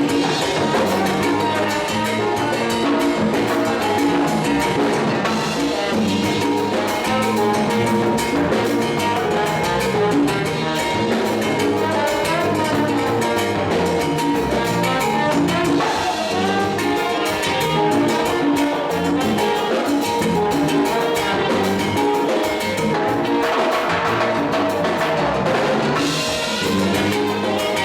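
Live salsa orchestra playing a romantic salsa number, with drum kit and Latin percussion keeping a steady dance rhythm under the band.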